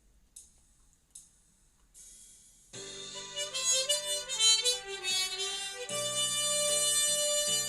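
G-key harmonica entering about three seconds in, playing a slow melody that broadens into sustained chords. Before it come two faint clicks.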